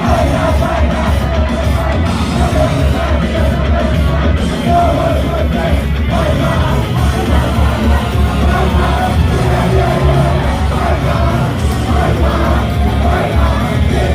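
Loud live rock-style idol pop song played over a venue PA, with a female vocal melody and a heavy steady beat, heard through a phone microphone.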